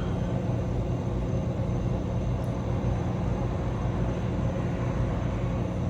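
Steady low rumble with a faint hum and no distinct events.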